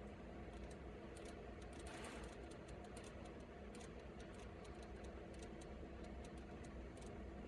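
Faint, irregular clicks and ticks over a steady low hum, with a brief rustle about two seconds in.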